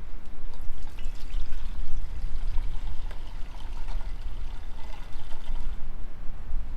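Liquid being poured into a vessel, with small clinks, for about five seconds before it stops near the end.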